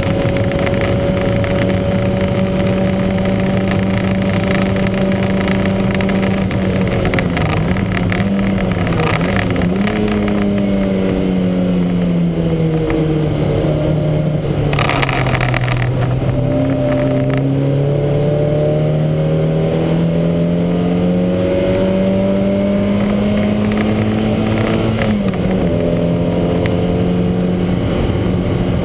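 Lancia Montecarlo's four-cylinder engine heard onboard under racing load, running with a misfire that the owner calls huge. The pitch holds steady, dips about seven seconds in, falls through the middle with a short rush of noise about halfway, then climbs again and drops sharply at a gear change near the end.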